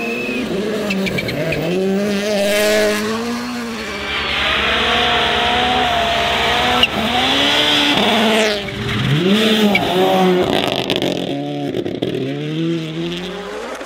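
Rally car engine revving hard, its pitch climbing and dropping again and again through gear changes. A steady hiss joins in for a few seconds in the middle.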